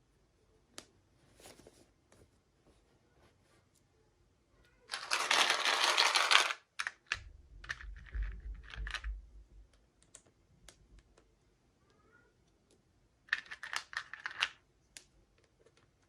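Toy packaging being handled: small clicks and taps, with two loud bursts of rustling plastic or paper about five and thirteen seconds in.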